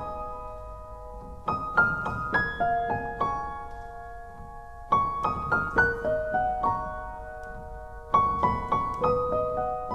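Background piano music: short runs of quick notes about every three seconds, each settling into a few held, fading tones.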